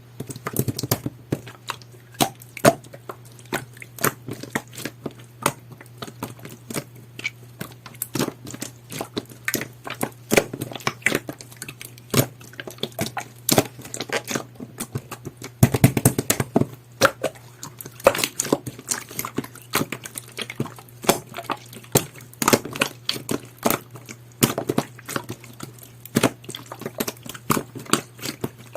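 Jelly-textured clear slime being kneaded and pressed by hand, making a dense, irregular run of sticky clicks and pops, thickest about halfway through. A steady low hum sits underneath.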